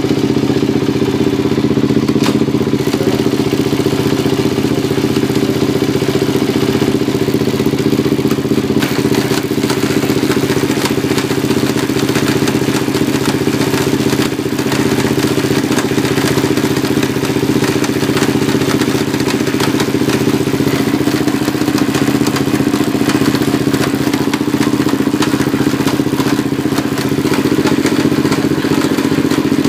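Arctic Cat DVX 400 quad's single-cylinder four-stroke engine running at a steady, unchanging speed, with a rapid clattering over the engine note. This is the weird noise the owner says it makes, mainly in second gear.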